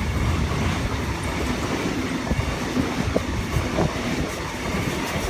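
Eight-car Oscar (H-set) double-deck electric train passing through the station: a steady rumble of the cars going by with a few clicks of wheels over the rails.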